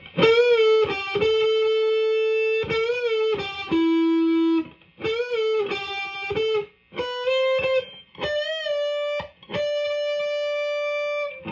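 Epiphone Les Paul electric guitar on its neck humbucker in coil-split mode, through a Marshall amp's ultra-gain channel, playing a single-note lead line of sustained notes with bends and vibrato.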